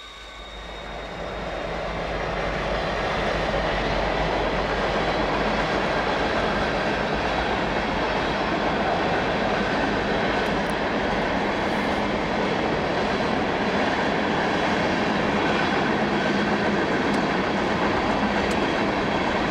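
Freight train of tank cars rolling past: a steady rumble and rattle of wheels on rail that swells over the first few seconds, then holds.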